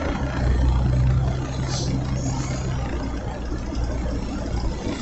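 Engine and road noise heard inside a moving car with its windows down, with a steady low hum that fades near the end and a brief hiss about two seconds in.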